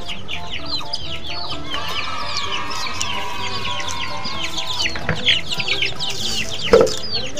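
A flock of young chickens peeping all at once: rapid high cheeps, each falling in pitch, with a sharp knock near the end.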